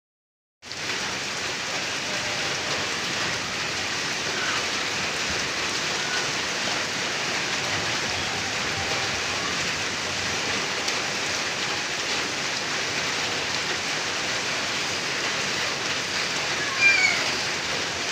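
Light drizzling rain: a steady, even hiss of fine rain falling on surfaces, beginning abruptly about half a second in. A few brief high chirps sound near the end.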